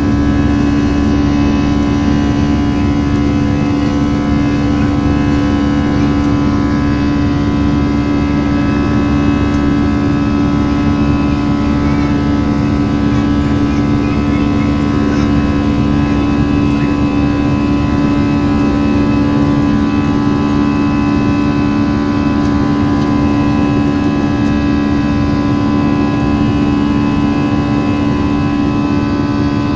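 Steady cabin drone of an Airbus A321-211, its CFM56 engines and cabin air heard from inside the cabin, with a strong steady hum that does not change.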